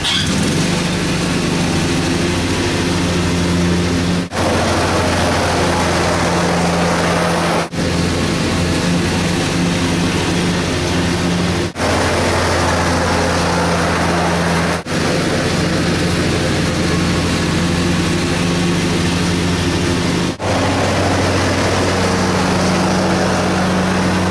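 John Deere lawn tractor's engine running steadily under a wash of mechanical noise. It is heard in several spliced clips, with a brief dropout at each cut.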